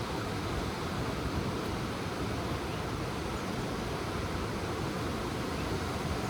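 Ocean surf: a steady, even wash of waves with no single break standing out.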